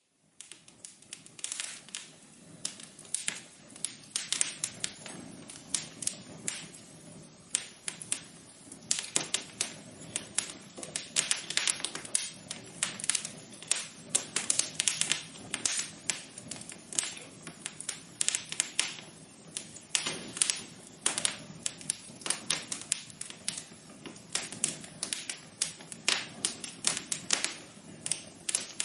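Wood fire crackling in a fireplace: frequent, irregular sharp pops and snaps over a steady low rush of burning.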